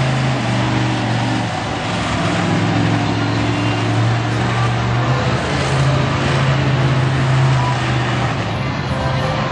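Monster truck engine running loudly at a steady low pitch.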